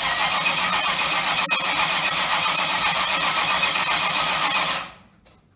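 A car engine being cranked over by its starter, turning with a steady rapid pulse without catching, then cutting off sharply near the end.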